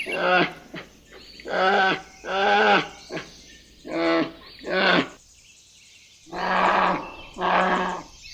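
Leopard sawing: repeated harsh, rasping calls in pairs, a pair about every two seconds.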